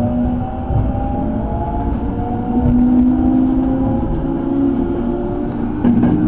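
Hanshin Main Line electric train heard from inside the car as it runs between stations: the traction motors hum in several steady tones that slowly shift in pitch, over a low running rumble. A few sharp clicks come near the end.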